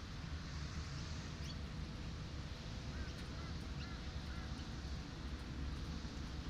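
Steady wash of sea surf mixed with the low rumble of road traffic. A few faint short bird calls come about halfway through.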